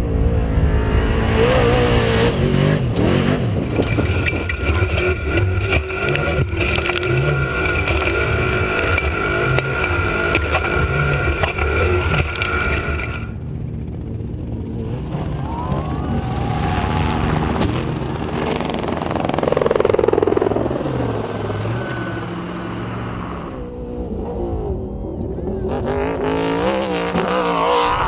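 Off-road race trucks' engines running hard and revving, with the pitch rising and falling as they accelerate and pass. The sound changes abruptly about halfway through, and a truck goes by with a falling pitch a few seconds later.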